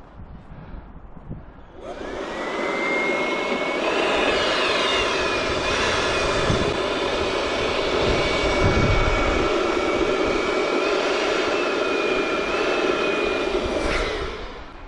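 Small electric air pump, like a balloon inflator, switched on about two seconds in: its motor whine rises as it spins up, holds steady with a loud rushing of air, and stops near the end.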